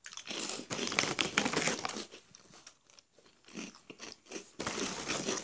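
Two people crunching and chewing puffed snacks, densest for the first two seconds, then in short spells again near the end.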